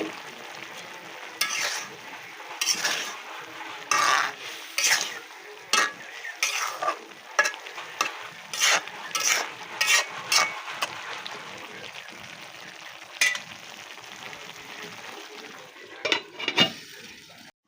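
Food frying and sizzling in oil in a pan, stirred with a spatula in short scraping strokes. The strokes come in a quick run over the first ten seconds or so, then once more, and again briefly near the end.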